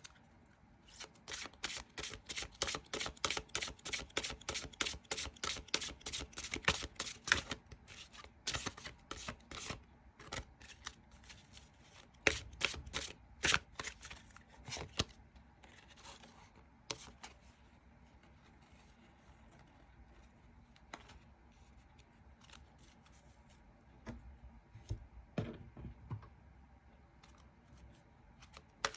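Tarot cards being shuffled and handled: a quick, regular run of card taps at about three a second, then scattered sharper card snaps, a quiet stretch, and a few more taps near the end.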